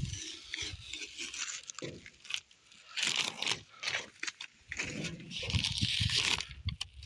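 Masking paper and tape being peeled off a truck's primed bodywork and crumpled, in irregular crackling, tearing bursts.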